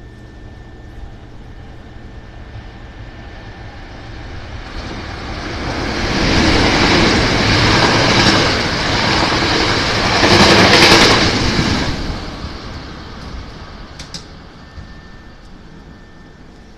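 Hankyu 9300 series electric train running through the station at speed without stopping: the running noise builds over a few seconds, stays loud for about six seconds as the cars go by, then fades away.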